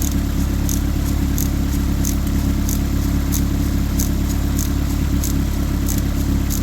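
Toyota engine idling steadily, with a sharp high tick repeating about every two-thirds of a second.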